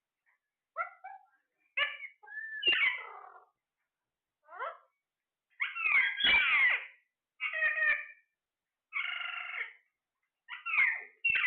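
Parrot calling: a string of about eight short squawks and gliding, whistle-like calls, with brief pauses between them.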